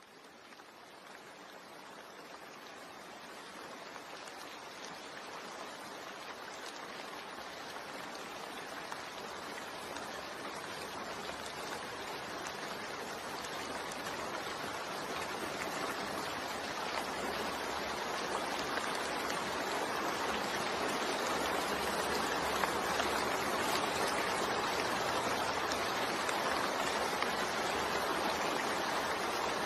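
Steady rain, a continuous hiss that fades in slowly from quiet and levels off about two-thirds of the way through.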